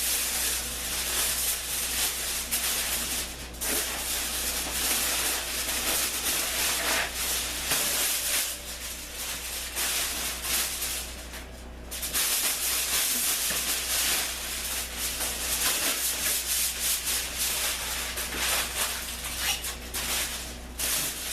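Aluminium foil crinkling and rustling as it is handled and pulled off, with a steady low hum underneath.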